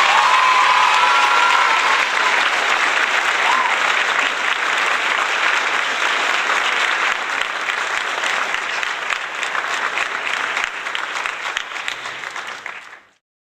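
Applause from a crowd of children, many hands clapping with a few high-pitched cheering shouts in the first few seconds. The clapping gradually thins and stops just before the end.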